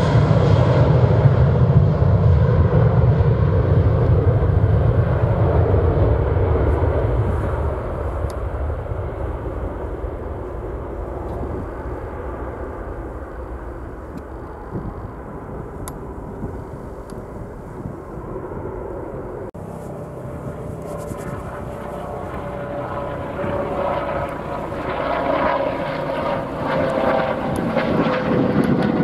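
Fixed-wing aircraft engines: a loud low rumble that fades away over the first several seconds, then engine noise building again in the last few seconds with a whine that slowly falls in pitch.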